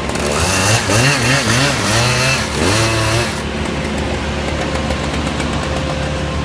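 Chainsaw engine revving up and down in quick swells for about three seconds, then dropping back to a steady running sound.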